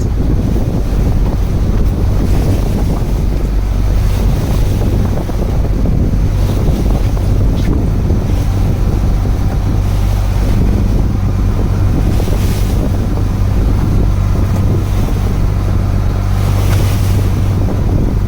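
A fishing boat's engine running steadily with a low hum, under wind buffeting the microphone and the wash of the sea.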